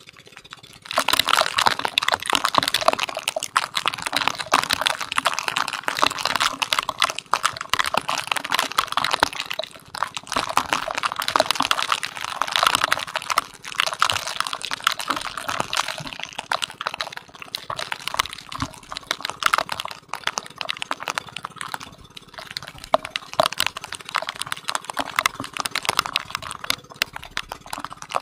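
Heavy rain hitting the outrigger boat and the camera, a dense crackling patter that starts abruptly about a second in, with a steady low hum underneath.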